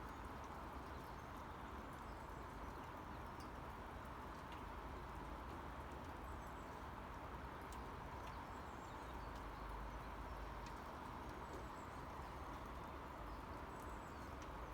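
Steady rain falling, a soft even hiss with scattered small drops ticking irregularly.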